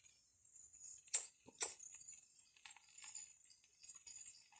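Two sharp clicks about half a second apart, a little over a second in, over a steady high-pitched drone of jungle insects.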